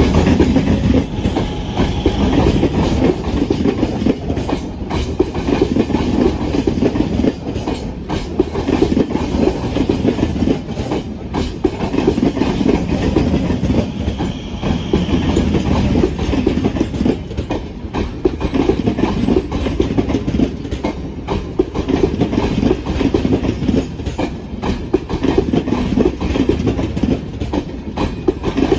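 Coaches of an electric MEMU local train rolling past close by: a steady rumble of steel wheels on the rails, with a continuous clickety-clack as the wheels cross rail joints.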